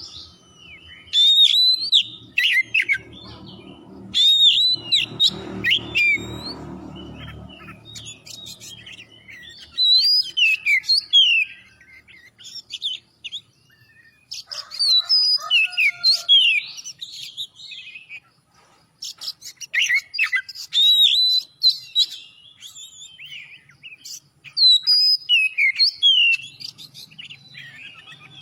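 Oriental magpie-robin (kacer) singing in full voice: loud phrases of varied whistles, chirps and quick up- and down-slurred notes, a second or two each, repeated every few seconds. A low rumble sits under the song for roughly the first ten seconds.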